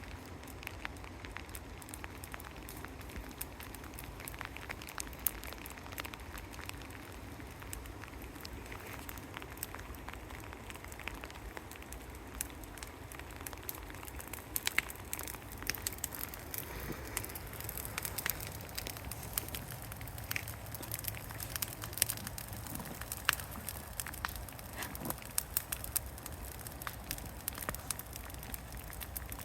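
Burning yard-debris brush pile crackling and popping in the rain, with sharp snaps that come thicker in the second half.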